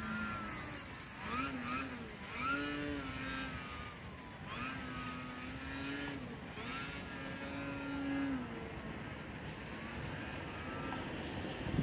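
Radio-controlled Edge 540 model aerobatic plane's motor and propeller droning in flight, its pitch holding and then falling away several times as it passes and manoeuvres, with a noisy haze underneath.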